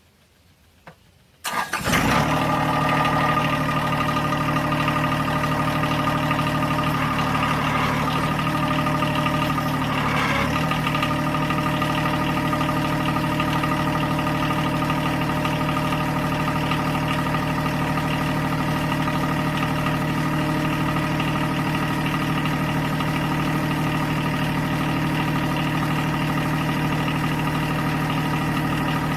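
John Deere 1023E compact tractor's three-cylinder diesel engine starting up about a second and a half in, then running steadily.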